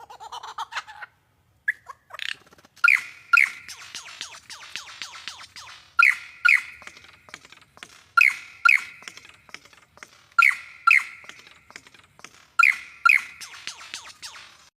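A bird calling a sharp two-note call, repeated every two seconds or so, five times, with faint rapid clicking between the calls.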